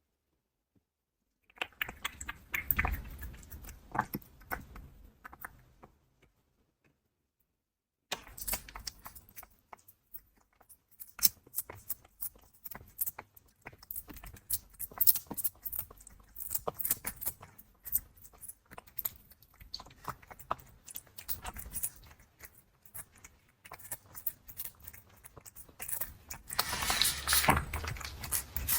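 Cat chewing crunchy dry food close to the microphone: dense, irregular crunching and clicking, stopping completely for about two seconds near the start before carrying on.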